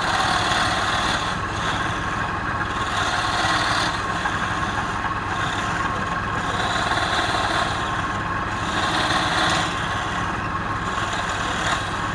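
Wood lathe motor running steadily while wood spinning on it is worked with a tool, a rough scraping that swells and fades every second and a half to two seconds as the tool makes repeated passes.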